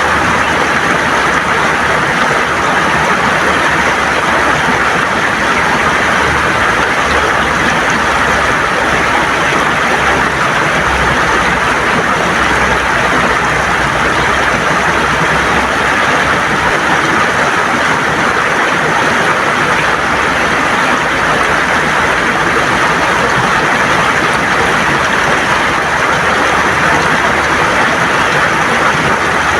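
River water gurgling and rushing over smooth stones: a steady, even wash of water noise.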